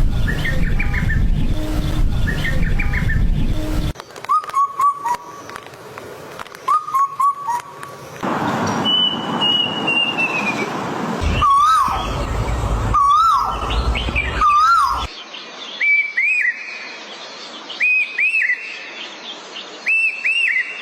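Birds calling in a run of short clips, each with a different call: clear whistled notes, a long falling whistle, upslurred notes repeated about once a second, and paired rising notes near the end. The calls change abruptly every few seconds.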